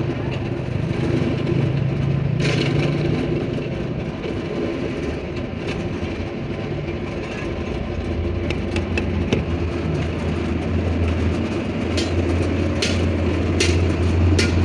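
A motor or engine running steadily, with a deeper hum setting in about eight seconds in and a few sharp clicks near the end.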